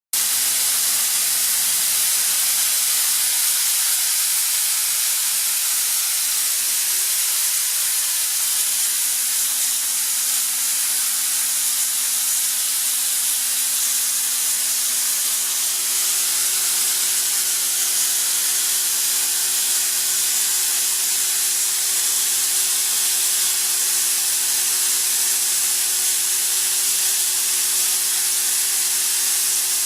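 Kaeser ESD 351 oil-flooded rotary screw air compressor running: a steady, loud hiss of rushing air over a faint low hum. A second steady tone joins the hum about halfway through.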